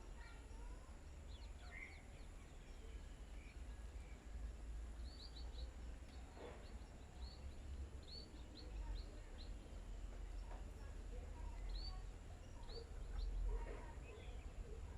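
Small birds chirping: short high chirps in scattered quick runs, most of them around the middle and again near the end, over a steady low rumble.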